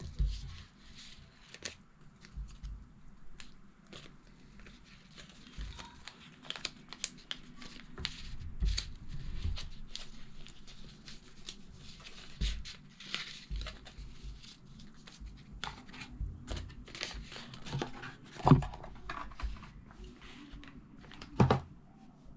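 Packaging being handled and opened: crinkling and tearing amid scattered small clicks, with two sharper knocks, one about two-thirds of the way through and one near the end.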